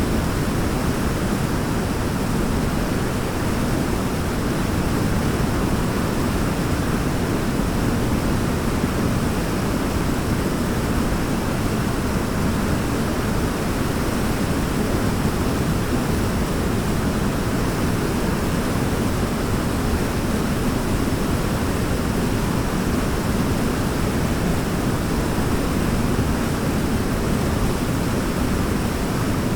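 Forest waterfall: falling water rushing in a steady, unbroken roar, deep and even, with no other sounds.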